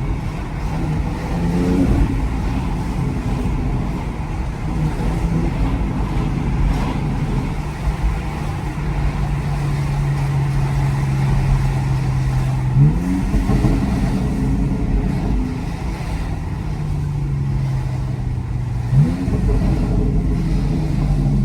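BMW X3 M Competition's twin-turbo S58 straight-six running through its stock Competition exhaust while driving; the revs sag slowly and then jump sharply twice, about thirteen and nineteen seconds in.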